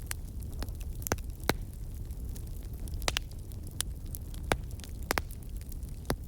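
Campfire burning: irregular sharp crackles and pops, a few louder snaps among them, over a steady low rumble.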